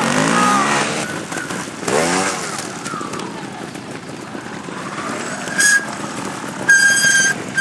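Trials motorcycle engine blipped in short rises and falls of revs. Near the end a high steady squeal sounds twice, once briefly and then for most of a second.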